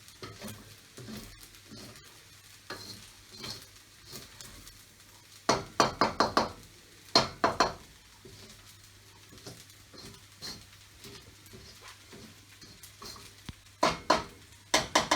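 Spatula knocking and scraping against a pan as fried rice is stir-fried, in quick runs of knocks about five seconds in, again about seven seconds in, and near the end, with the rice sizzling faintly between them.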